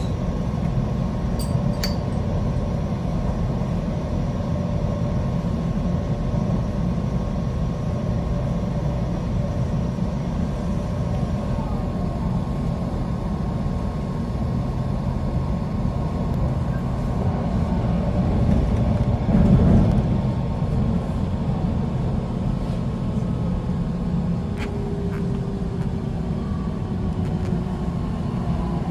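Electric train running, heard from inside the carriage: a steady low rumble of wheels on rail with a faint motor whine. The whine falls in pitch over the last few seconds as the train slows for the station.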